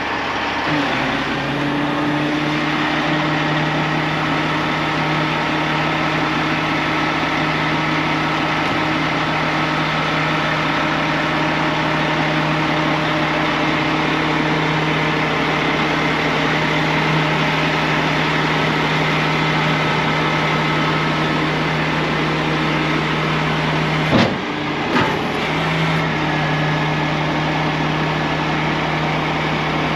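An engine running steadily at a constant speed, with two short sharp knocks about 24 seconds in.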